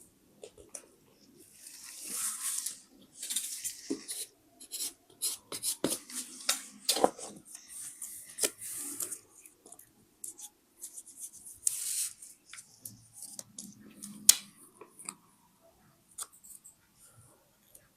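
Close-up paper crafting sounds: paper rustling and sliding in short bursts, with many small sharp clicks and taps scattered throughout.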